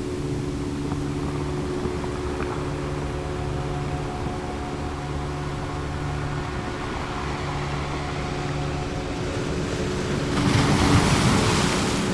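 Ocean waves washing steadily, with one wave surging louder near the end, over a soft drone of held tones.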